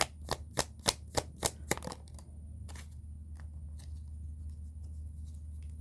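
Tarot cards being shuffled by hand: a rhythmic run of crisp card slaps, about three a second, that stops about two seconds in, followed by a few faint card taps over a low steady hum.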